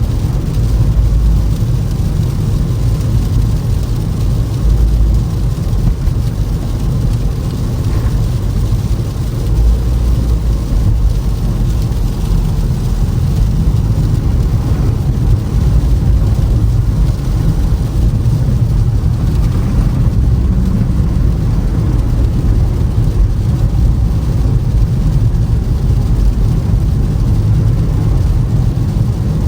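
Toyota Camry driving on a snowy, icy road: a steady low rumble of tyres and engine, even throughout.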